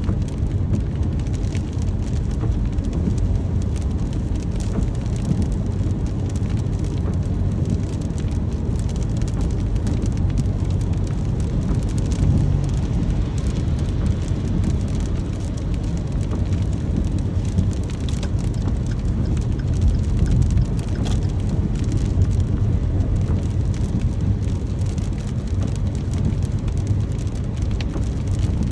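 Steady rain falling: an even, deep rush with the fine patter of individual drops on top, unchanging throughout.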